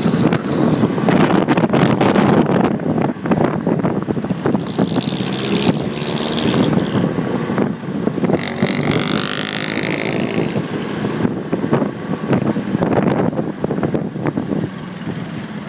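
Motorcycle riding through traffic, heard from a phone mounted on the bike: engine and road noise with wind buffeting the microphone. Twice around the middle, a wavering high-pitched whine cuts through.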